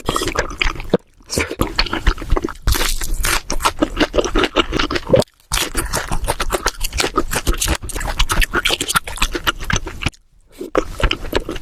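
Close-miked eating sounds: dense chewing and crunching of food. Three short pauses break it up.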